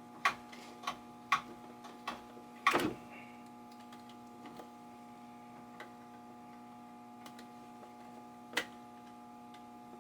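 Short sharp clicks and taps from a light switch and its wiring being handled, five or six in the first three seconds and one more near the end, over a steady faint electrical hum.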